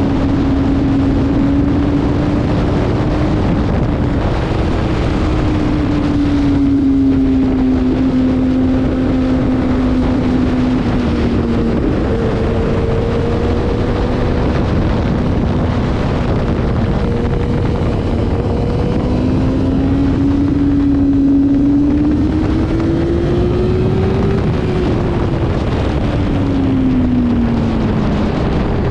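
Motorcycle engine running at track speed under heavy wind rush on the microphone. Its pitch rises and falls with the throttle, dropping in steps twice in the first half and climbing then falling away near the end.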